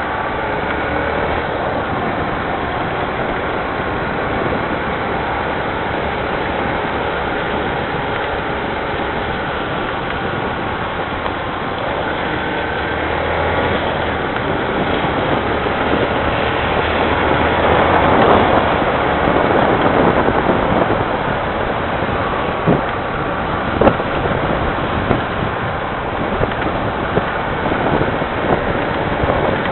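Rain falling steadily, a loud even hiss that swells for a few seconds a little past the middle, with a few sharp clicks in the last third.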